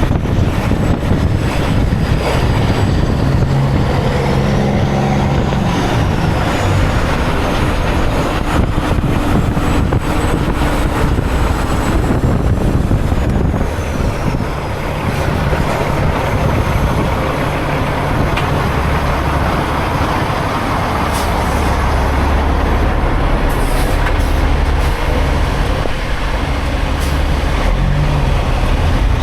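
Semi truck's diesel engine running under way, a loud steady drone with road noise, its pitch stepping up or down a few times.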